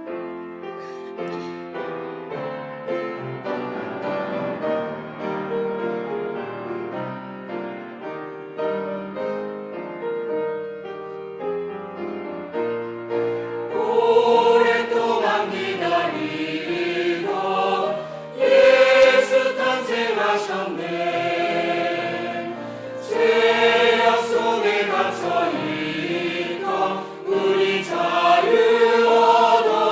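A piano or keyboard plays an introduction. About halfway through, a choir comes in singing a Christmas cantata piece over it, louder from then on.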